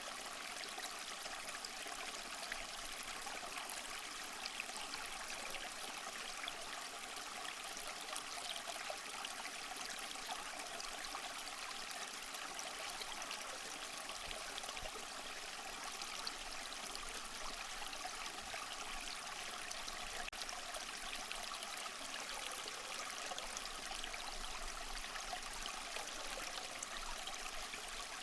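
Small waterfall splashing and trickling steadily over mossy rocks, a continuous bright rush of water with fine spattering.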